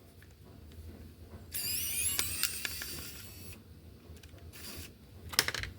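Small electric screwdriver whirring for about two seconds as it backs out the slot car's chassis screws, with light clicks, then a sharper knock near the end.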